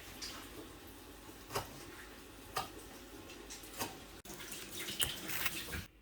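Wood fire burning in a fireplace firebox: a low steady hiss with a few sharp crackles and pops while the logs burn down to coals.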